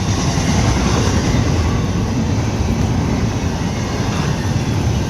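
Freight train rolling past: a steady, unbroken rumble of wheels on the rails.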